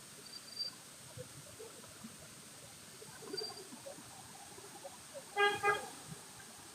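Vehicle horn giving two short toots in quick succession, the second following about a third of a second after the first, near the end.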